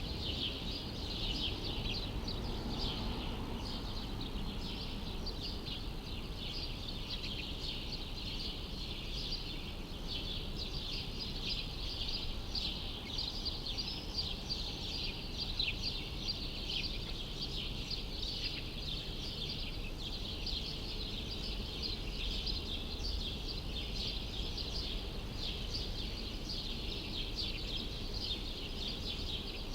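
Dense chorus of many small birds chirping rapidly and continuously, over a low, steady background rumble.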